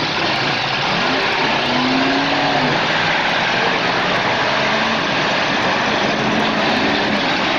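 Demolition derby cars' engines revving hard in a steady loud din, the pitch swinging up and down a couple of times as the drivers push and ram.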